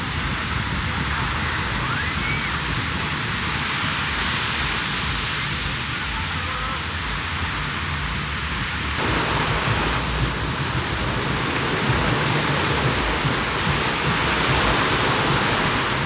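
Steady rushing noise of waves on a beach, with wind buffeting the microphone; the noise changes abruptly about nine seconds in.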